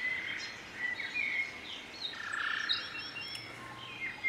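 Birds chirping: many short chirps and whistled calls, some gliding up or down in pitch.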